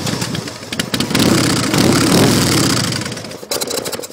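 Big Dog Ridgeback motorcycle's V-twin engine running loudly, swelling louder in the middle, then stumbling with a few irregular pops and cutting out suddenly about three and a half seconds in.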